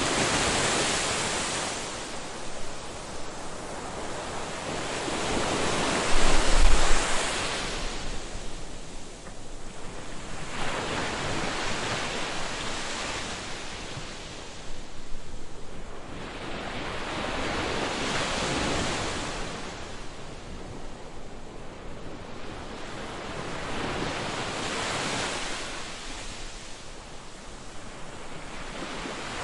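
Ocean waves breaking on a beach. The surf swells and falls back every five to seven seconds, with a louder, low rumbling surge about six seconds in.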